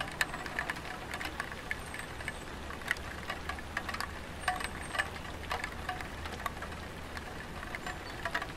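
Light rain falling on a tiled roof: a soft steady patter with irregular single drops landing as sharp, ringing ticks, several a second.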